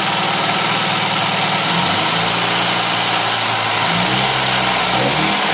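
Car engine idling, its speed shifting up and down a little about two seconds in and again near the end. It has an abnormal noise that the mechanic puts down to loose valves needing adjustment.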